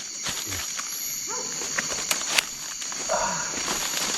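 Steady high-pitched chorus of night insects in tropical bush, with a couple of sharp clicks about two seconds in and faint low voices.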